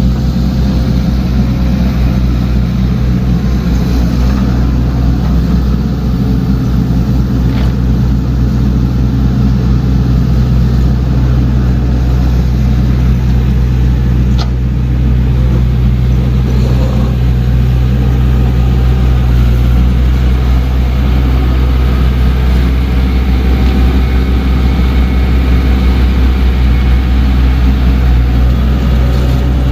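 Diesel engine of a heavy earthmoving machine (excavator or bulldozer) running steadily with a deep drone, with a faint sharp tick about halfway through.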